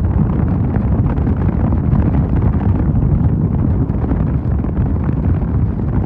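Wind buffeting the microphone on a moving Mondial Fury motorcycle, with the engine running underneath as a steady low rumble.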